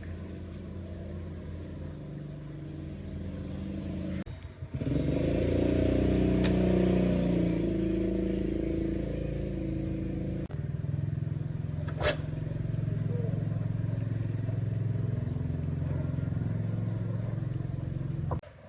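A motor running steadily with a low, even hum, in three cut-together takes that change abruptly about four seconds in, near the middle and just before the end.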